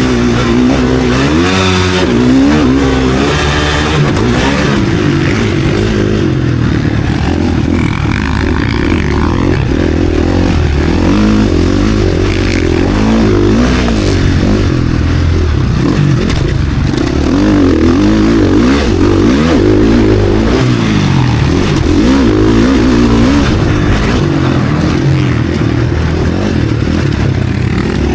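KTM SX-F four-stroke motocross bike engine ridden hard in a race, loud, revving up and falling back over and over as the rider accelerates, shifts and rolls off through the track's sections.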